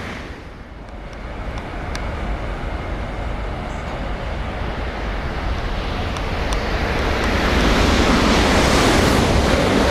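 Shinkansen bullet train running through the station at high speed: a rushing noise grows steadily from a lull about a second in and is loud near the end.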